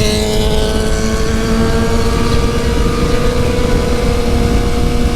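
Suzuki GSX-R750's inline-four engine running under way, its pitch climbing slowly and steadily as the bike gently gathers speed, over a constant low wind and road rumble.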